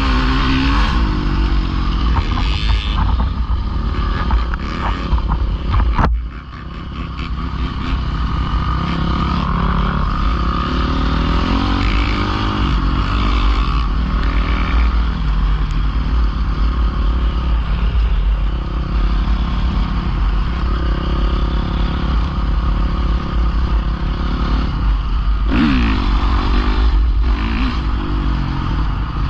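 Dirt bike engine running as it is ridden, with throttle rises in pitch near the start and again about 25 seconds in. The sound cuts sharply about six seconds in and builds back up over the next couple of seconds.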